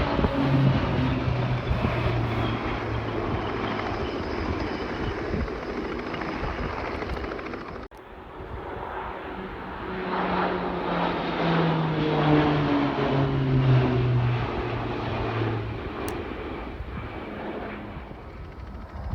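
Aircraft flying past: a loud engine drone whose pitch falls as it goes by. It breaks off suddenly about eight seconds in, and then a second pass comes with the same falling drone.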